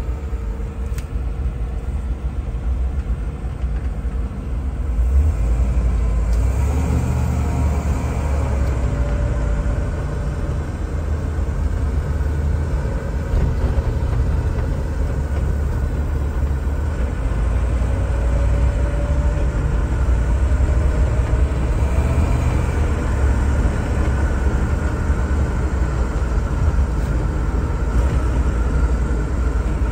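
A 1986 Range Rover Classic's swapped-in 6.2-litre LS3 V8 and 6L80 automatic on the move, a steady low rumble with road noise. It gets louder about five seconds in as the car accelerates, and a faint rising whine comes twice.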